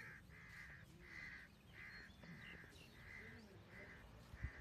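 A bird calling over and over, a short harsh call repeated about twice a second, faint, over a low outdoor rumble. A single knock sounds near the end.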